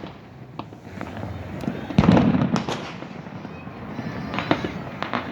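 New Year fireworks going off: a run of sharp crackling pops, with one loud deep boom about two seconds in.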